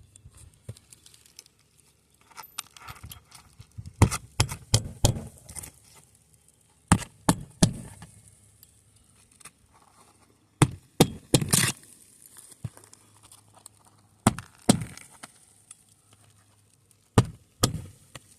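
Sharp clicks and knocks in short runs of two to four, each run a few seconds apart, with quiet between.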